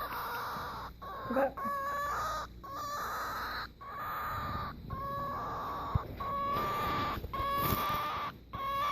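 A cockatiel making a strange, repeated call: about eight or nine drawn-out notes at a steady pitch, roughly one a second, each broken off by a short pause. A sharp click sounds about six seconds in.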